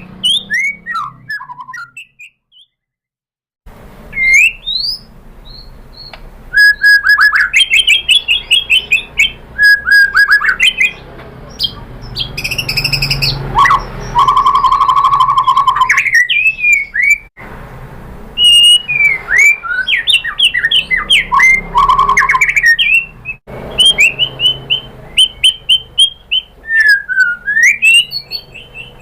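White-rumped shama (murai batu) singing a long, varied song of clear whistles, rising and falling slurs and rapid note series, broken by a silent gap of just over a second about two seconds in.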